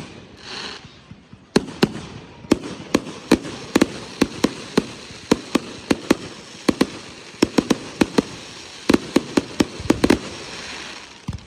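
Consumer fireworks going off in a rapid barrage: a string of sharp bangs, two or three a second, over a steady crackling hiss, easing off near the end.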